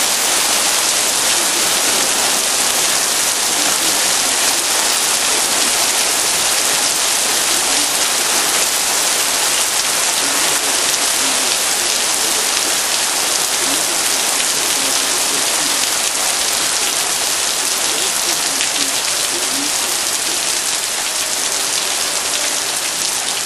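Heavy rain pouring down in a steady, dense hiss onto pavement, a flooded street and a parked car.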